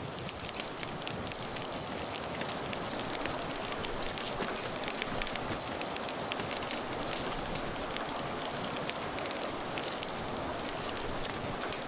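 Wood fire crackling with many small sharp pops, over a steady hiss of rain.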